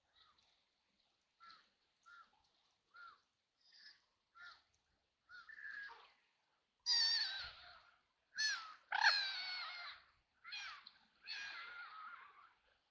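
Ducks quacking: a string of soft, faint calls, then louder, harsher quacks from about halfway through.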